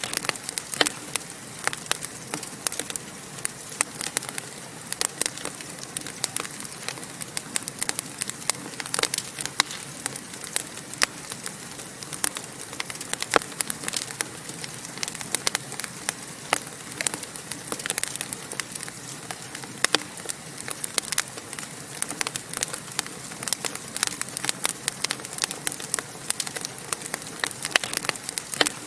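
Wood fire burning in a fireplace, crackling and popping with many irregular sharp snaps over a steady hiss.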